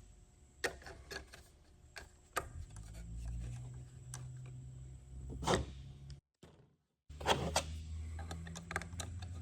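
Scattered small clicks and taps of a hand tool working on an RC airplane's propeller, as the prop nut is tightened onto the motor shaft, with one louder knock about halfway through. A low steady hum sits underneath from a couple of seconds in, and the sound drops out completely for a moment past the middle.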